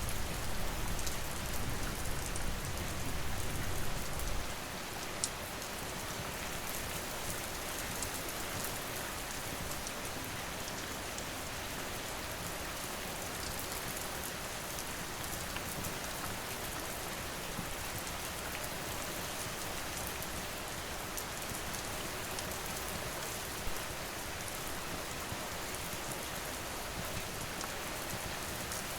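Steady rain falling on surfaces, an even hiss dotted with sharp drop ticks. A low rumble underneath drops away about four seconds in.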